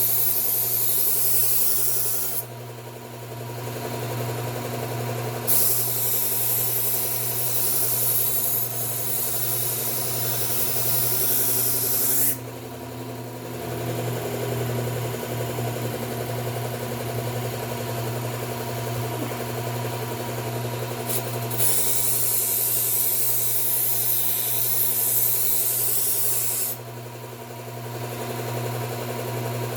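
Electric belt knife sharpener running with a steady motor hum while a knife edge is ground on a Cubitron 120 abrasive belt in edge-trailing passes. Three stretches of loud grinding hiss, lasting several seconds each, are separated by quieter pauses where only the running belt is heard.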